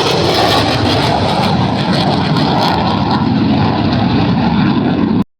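Loud, steady engine noise from a military aircraft passing at an airshow. It breaks off abruptly near the end at an edit cut.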